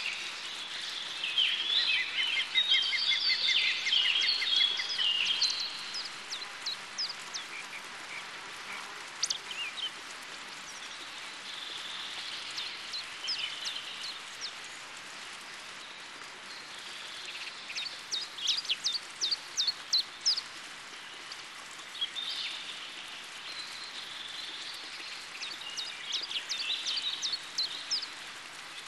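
Wild birds singing over a steady background hiss: bursts of chirps and quick trills, loudest a few seconds in, again about two-thirds through, and near the end.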